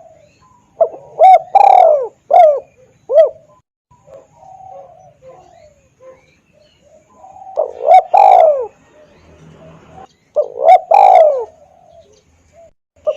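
Spotted dove (tekukur) cooing: three loud phrases of short coos, about a second in, near the middle and again a few seconds later, with fainter coos between them. It is a lure call, played to draw wild spotted doves in to answer.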